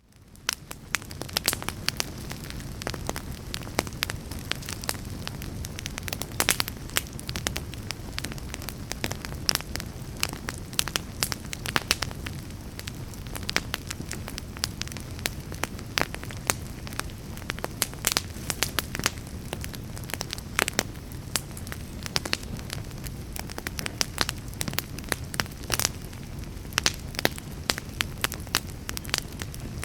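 Wood fire burning in a fireplace, crackling and popping with frequent sharp, irregular snaps over a steady low rumble of flames. It fades in over the first second.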